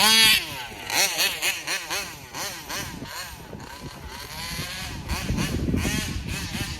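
Taylor 35 two-stroke engine of a gas RC car, fitted with a Roostertail 990 carburetor, revving up and down in quick repeated bursts as the car is driven. Loudest in the first second, fainter in the middle as the car moves away, then louder again near the end.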